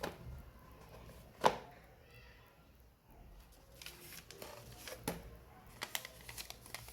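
Handling noise: one sharp click about one and a half seconds in, then scattered light clicks and taps, faint over a low hum.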